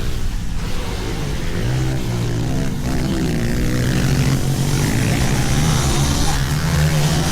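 Pit bikes running on a dirt track, a steady engine drone with slight rises and falls in pitch.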